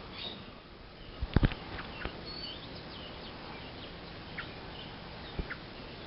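Small birds giving scattered short, high chirps. Two sharp knocks come close together about a second and a half in, the loudest sounds, with another knock near the end.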